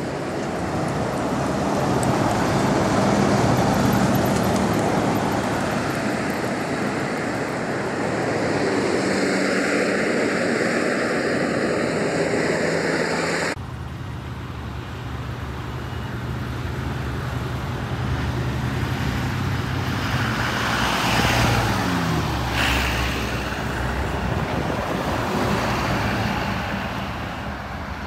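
Bus engines running with road and tyre noise, swelling and fading as the coaches pass. An abrupt cut about halfway through switches to another bus's steady, lower engine hum.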